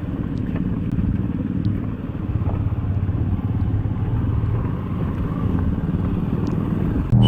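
Motorcycle engine running steadily, a dense low sound at an even level.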